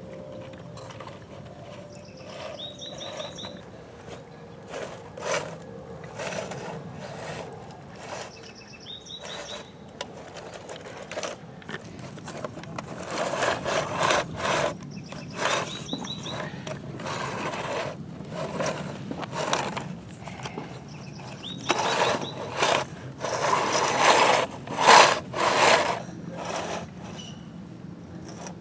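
Plastic toy bulldozer scraping and crunching through loose dirt as it is pushed along in short strokes, louder in two spells in the second half.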